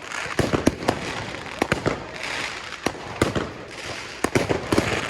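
Fireworks going off, with many sharp bangs at irregular intervals over continuous crackling.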